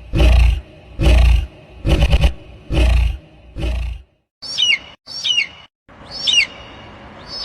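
A bird screaming, edited for a meme: first five loud, heavily bass-boosted screams about a second apart, then four shrill calls that each swoop and fall in pitch.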